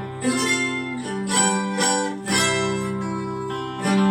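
Acoustic guitar strumming chords: the opening bars of a song, a new strum every half second to a second.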